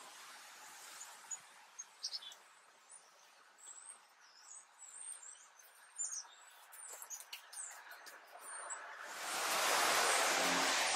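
Small birds chirping in quick, high calls over a faint background, with a few soft taps in the first couple of seconds. About nine seconds in, a loud, even rushing noise swells up and holds.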